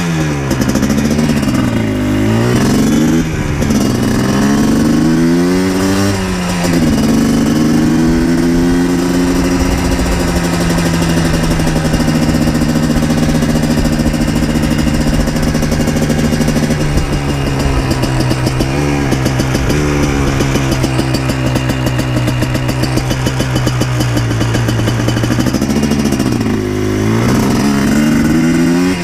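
2000 Yamaha Blaster 200's single-cylinder two-stroke engine revving up and falling back several times over the first six seconds, as it accelerates through the gears. It then holds a steady pitch while cruising, drops briefly near the end and revs up again.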